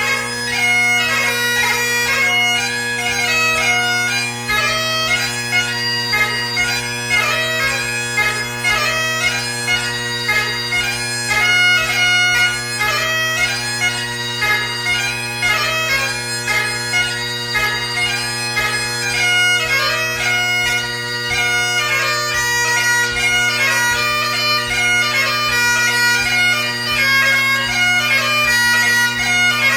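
Great Highland bagpipe played solo in light music (ceol beag): the drones hold a steady low chord under the chanter's quick, constantly changing melody.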